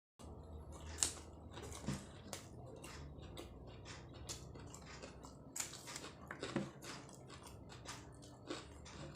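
Close-miked biting and chewing of martabak telur, egg-filled fried pastry eaten with raw bird's-eye chillies: irregular crisp clicks and crunches, the loudest about a second in.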